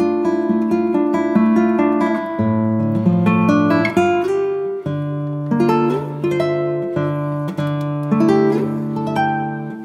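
Background music on acoustic guitar: plucked and strummed chords ringing on, with the bass note changing every few seconds.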